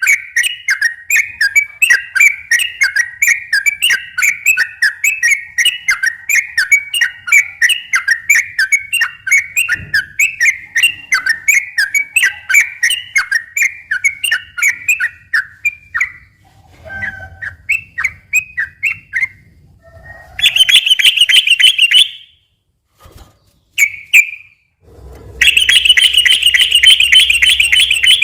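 Yellow-vented bulbul (trucukan) singing loudly. A fast run of repeated chirping notes, about four or five a second, goes on for over half the time, then comes a few scattered phrases. Two dense, rattling trills follow, one about 20 seconds in and one from about 25 seconds in.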